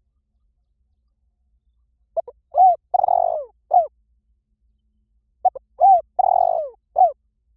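Spotted dove cooing, as a recorded decoy call: two matching phrases a few seconds apart, each a couple of short coos, a longer burry coo and a final coo.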